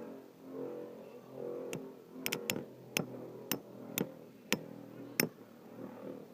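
A series of sharp clicks, about two a second, from about two seconds in until near the end, over faint low pitched background sounds.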